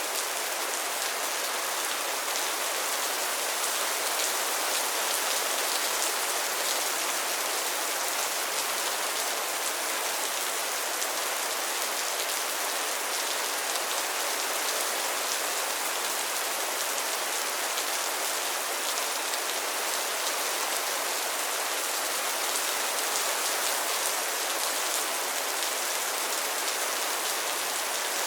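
Steady rain falling on a pond and its lily pads: an even, dense patter of drops on water and leaves.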